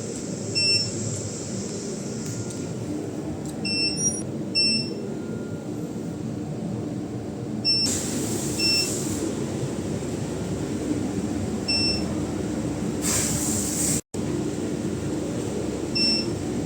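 Short electronic beeps, seven in the stretch and spaced irregularly, from the control panel of a SuperbMelt SPB-DH2 mini induction melting furnace, over a steady machine hum. A brief hiss about thirteen seconds in.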